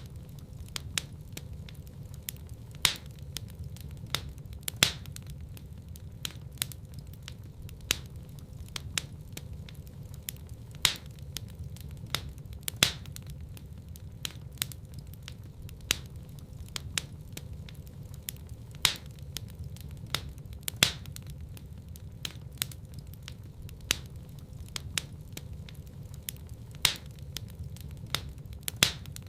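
Wood fire in a fireplace crackling steadily, with a loud pop every few seconds over a low, steady rumble of the burning.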